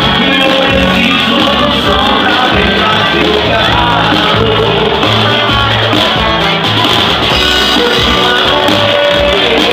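Live band music with singing voices, played loud and continuous.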